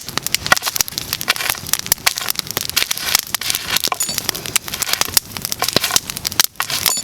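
Wood fire crackling and popping, with many sharp, irregular snaps.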